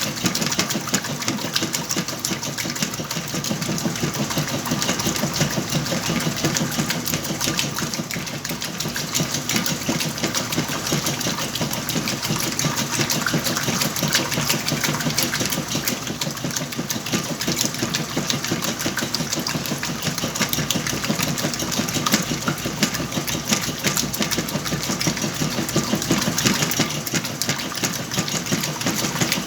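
Whirlpool washing machine running steadily through its cycle with a load of blankets.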